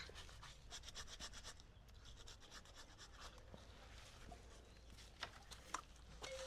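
Faint, quick rubbing strokes in short runs, with a couple of sharper clicks near the end.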